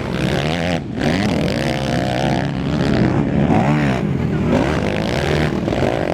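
250 cc race motorcycle engines revving hard, their pitch repeatedly rising and falling as the bikes accelerate and shift, with several engines overlapping and a brief drop just under a second in.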